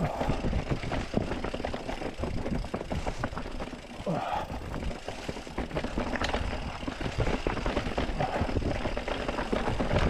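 Mountain bike clattering over rocky singletrack: a dense, continuous run of knocks and rattles as the wheels, suspension and frame hit rock.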